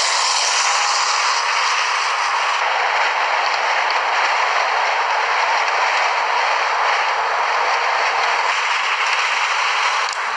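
Steady, loud rushing storm noise, an even hiss with no distinct strokes or pitch.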